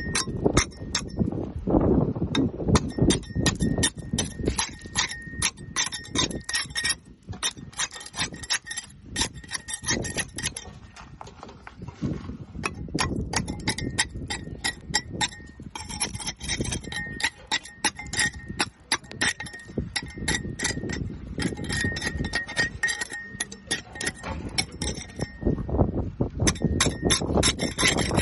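Barnacles being scraped off a boat hull: rapid scratching, clicking strokes of a scraper on the crusted hull, with a thin steady high tone coming and going in the background.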